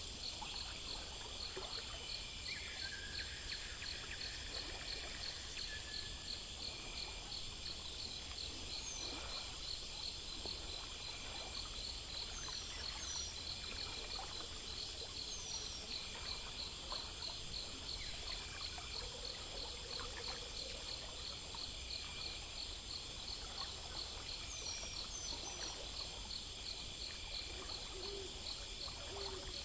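Insect chorus with crickets chirping in a fast, even pulse and other insects trilling steadily at a higher pitch, with a few short chirps over it.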